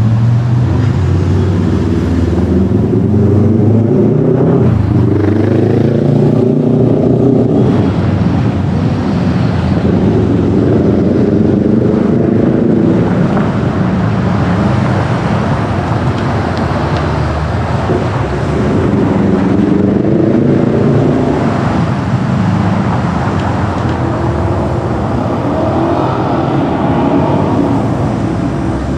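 Car engine and road noise while driving, with the engine note rising several times as the car accelerates and then dropping back.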